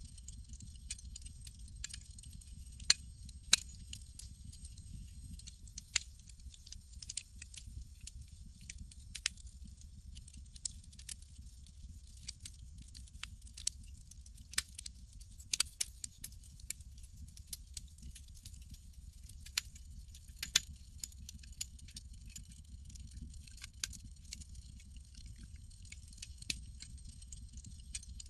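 Campfire crackling: irregular sharp pops and snaps, a few much louder than the rest, over a steady low rumble and a high hiss.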